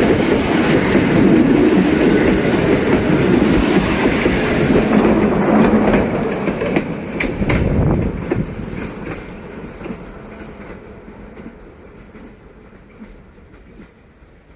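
Freight train rolling past with a loud rumble and clickety-clack of wheels over rail joints, with a few sharp knocks around the middle. It then fades steadily as the train moves away.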